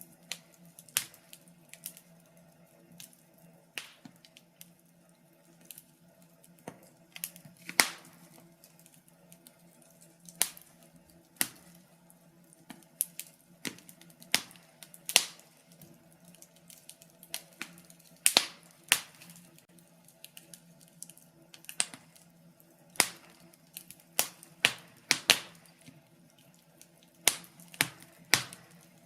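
Wood fire crackling in a fireplace: sharp, irregular pops and snaps from burning logs, several close together at times, over a faint steady hiss.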